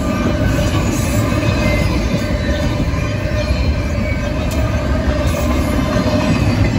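Double-stack intermodal container well cars of a freight train rolling steadily past at close range: a continuous heavy rumble with a faint steady whine over it.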